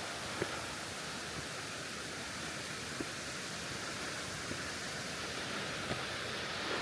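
Steady rush of a mountain stream tumbling over many small waterfalls beside the trail, with a few faint clicks scattered through it.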